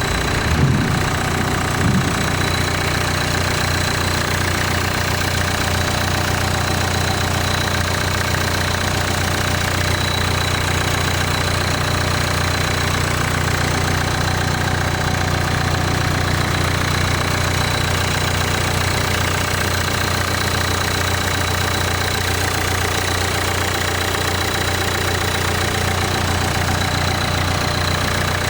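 Nissan Note E11's 1.5 dCi four-cylinder turbodiesel idling steadily with a diesel knock, with two brief louder bumps in the first two seconds.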